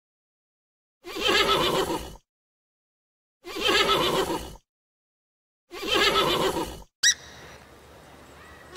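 An animal call about a second long, the same recording repeated three times with dead silence between. About seven seconds in, it gives way to low steady outdoor background noise with two short, sharp high chirps.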